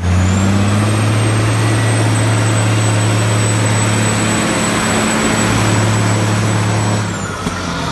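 Heavy GINAF multi-axle dump truck's diesel engine running steadily as the truck drives, a deep even hum with a thin high whine above it, easing off near the end.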